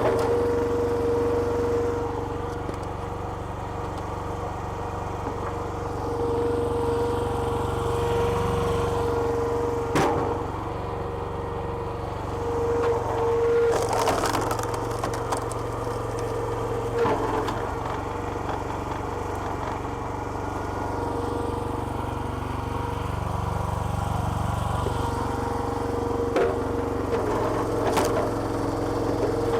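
Small petrol engine driving a homemade log splitter's hydraulic pump runs steadily, its note changing several times, while wood cracks sharply a few times as logs split.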